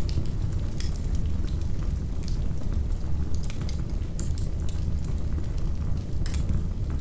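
Wood fire crackling in a fireplace, with irregular pops and snaps over a steady low rumble.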